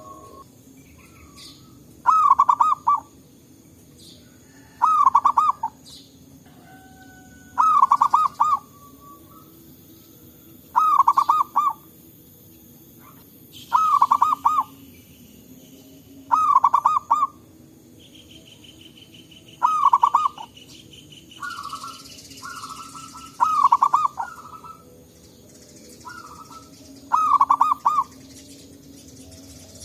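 Zebra dove (perkutut) cooing: short phrases of rapid staccato notes, about nine of them, each under a second and about three seconds apart. Fainter calls from another dove answer in between.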